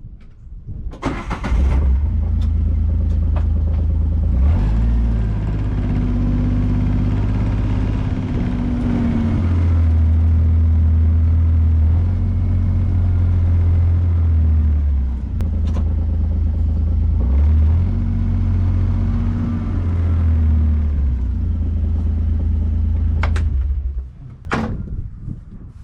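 A motor vehicle's engine starting and running while it is driven a short way, its speed rising and falling in steps, then switched off near the end, followed by a couple of sharp clicks.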